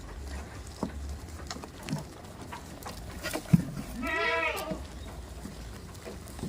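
A goat bleats once about four seconds in: a single call that rises and falls in pitch. A sharp knock comes just before it, the loudest sound here, and a few fainter knocks and a low rumble run underneath.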